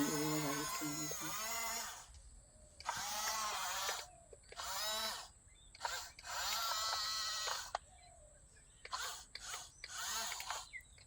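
Small electric gear motors of radio-controlled toy construction vehicles whining in repeated stop-start bursts of a second or two, the pitch wavering as the load changes.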